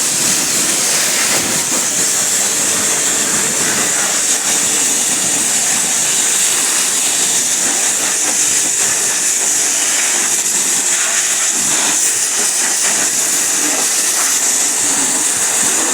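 Pressure-washer water jet spraying onto a car engine to rinse off soap: a loud, steady hiss that starts abruptly, with a faint steady hum beneath.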